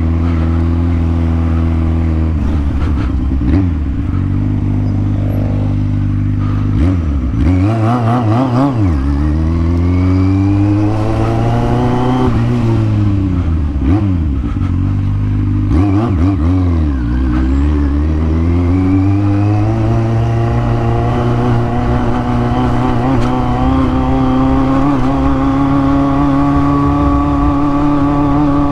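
Kawasaki Z750 inline-four engine with an aftermarket exhaust, heard while riding: the engine note rises and falls several times as the throttle is opened and closed, then climbs in one long pull and holds steady near the end.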